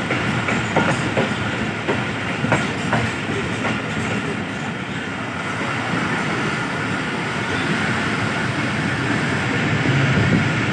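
Passenger train heard from aboard a moving coach: wheels clicking over rail joints and points in the first few seconds, then a steady running rumble on the track.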